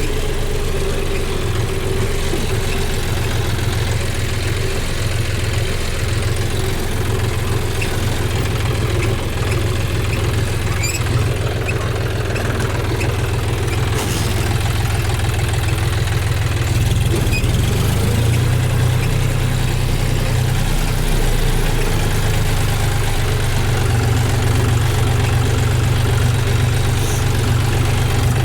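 John Deere 5050D tractor's three-cylinder diesel engine running steadily at low speed, a little louder in the second half.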